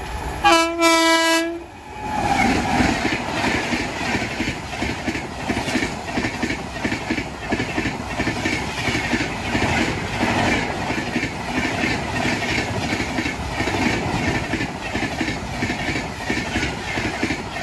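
WAP-7 electric locomotive sounding one short horn blast, then an express train passing close at about 130 km/h: a steady rush of coaches with rapid, even clickety-clack of wheels over the rail joints.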